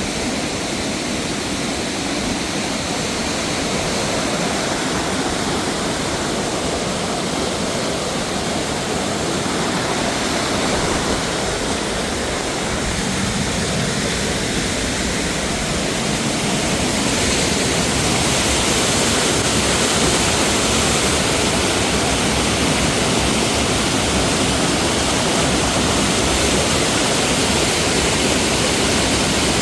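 Waterfall rushing steadily over rocks, a dense, even roar of water that grows a little louder past the middle.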